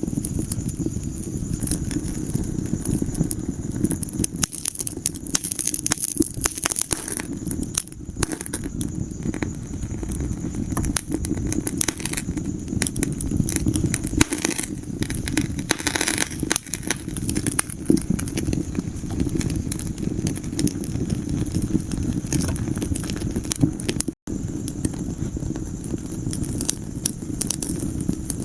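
Wood fire crackling and popping in a fireplace, with many small irregular snaps over a steady low rumble of flames. The sound drops out for an instant about three-quarters of the way through.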